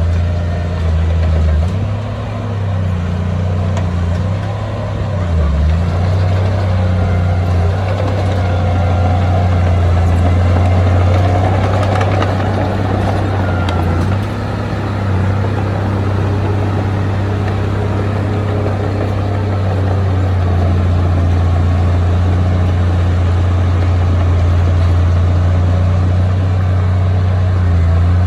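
Heavy earthmoving machine's diesel engine running with a strong, steady low hum that wavers briefly a few seconds in.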